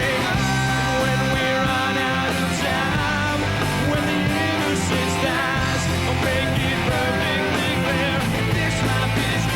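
Pop-rock band playing a song, with guitar prominent over a full band mix and no words sung.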